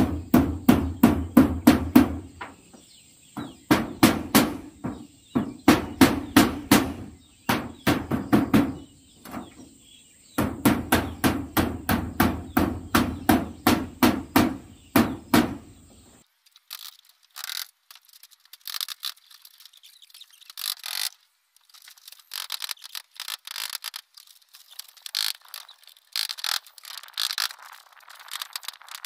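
Hammer driving nails into corrugated zinc roofing sheets, in quick runs of blows with short pauses between. About two-thirds of the way through, the blows turn thinner and tinnier, as if further off or in a different shot.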